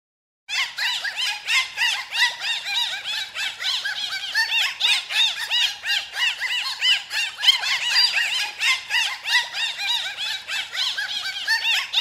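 Rapid chirping calls presented as those of Layard's beaked whale (strap-toothed whale): a dense stream of short squeaky chirps that rise and fall, several a second. It begins about half a second in.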